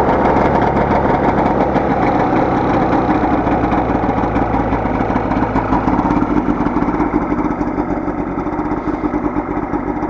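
2009 Polaris Trail Touring snowmobile's 550 twin-cylinder two-stroke engine idling steadily, warmed up after a cold start. It is a little louder in the first couple of seconds, then settles.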